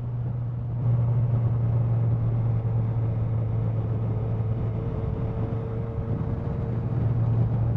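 Motorcycle engine running steadily while riding, with road and wind noise, the engine note stepping up slightly about a second in.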